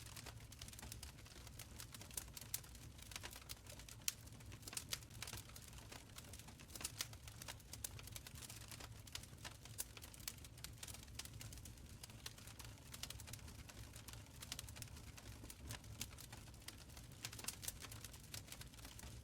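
Wood fire crackling in a stone fireplace: many small irregular pops and snaps over a faint low rumble of the burning fire.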